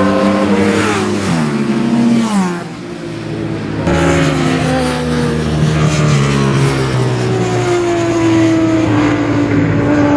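Classic superbike racing motorcycle engines going by at speed. The engine pitch falls over the first couple of seconds and the sound fades, then another bike comes in loud about four seconds in, its pitch easing slowly down as it passes.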